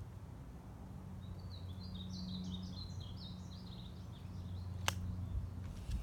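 A songbird sings a rapid jumbled phrase of short high chirps lasting about two and a half seconds, over a steady low hum. A single sharp click comes near the five-second mark.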